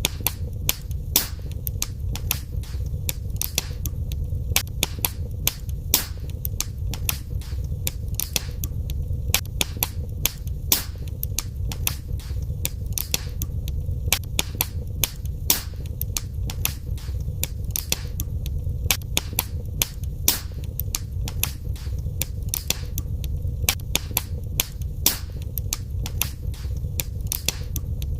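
Wood fire burning in a fireplace: a steady low rumble of the flames under frequent sharp crackles and pops, several a second.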